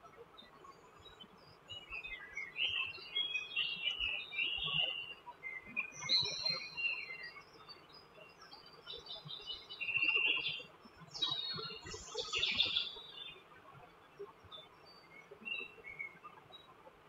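Birds chirping and singing, one quick high phrase after another, loudest about ten to thirteen seconds in and thinning out near the end.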